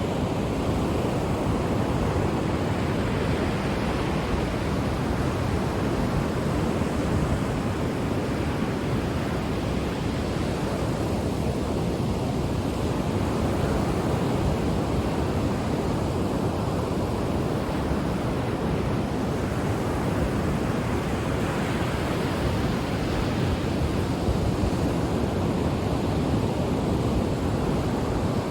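Ocean waves breaking and washing on a shore, a steady dense rush with gentle swells every few seconds, and some wind on the microphone.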